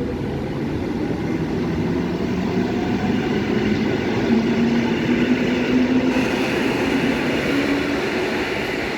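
A passenger train running along a station track: a steady rumble of wheels on rail with a low hum running through it.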